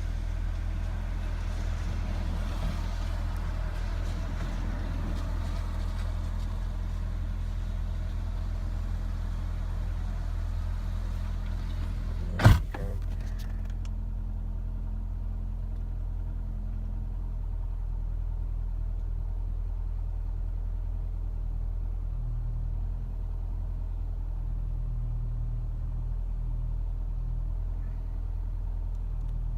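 2007 Nissan Altima engine idling after a cold start, a steady low hum that the owner calls a rough idle. A single sharp thump about twelve seconds in is the loudest sound; after it the higher hiss falls away and the idle goes on.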